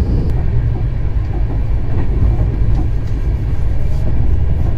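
Steady low rumble of a moving Double Decker Express train heard inside a passenger coach, with a few faint clicks.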